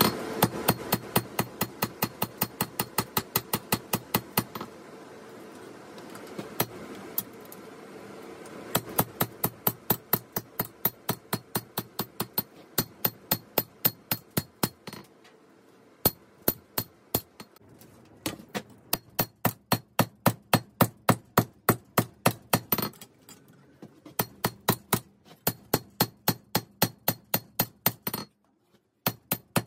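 Hammer blows on 5160 spring steel over an anvil, in steady runs of about three ringing strikes a second with short pauses between runs. A steady rushing noise sits under the first several seconds.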